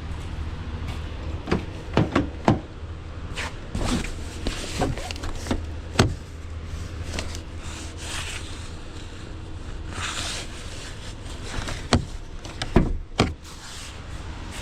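A steady low engine hum with scattered sharp knocks and clunks, the loudest about two, six, twelve and thirteen seconds in, and a short hiss around the tenth second.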